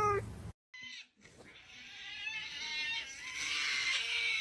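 Cat meowing: the end of one meow, a short break, then a long drawn-out meow that swells louder toward the end.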